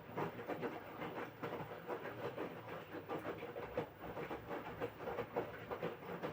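LG washing machine (6.5 kg) in the wash phase of its quick program: the drum tumbling the wet laundry, with water sloshing and irregular soft knocks and splashes.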